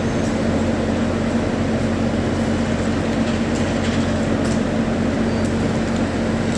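Passenger train running, heard from inside the car: a steady rumble with a constant low hum.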